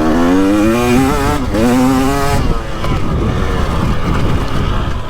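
2023 KTM 300XC's throttle-body-injected two-stroke single revving up under throttle. It rises in pitch for about a second and a half, dips briefly, rises again, then drops back to a lower, rougher running off the throttle about halfway through.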